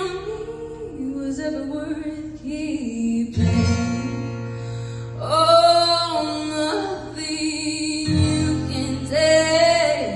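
Young female voice singing a slow ballad over plucked acoustic guitar, holding long notes around the middle and near the end.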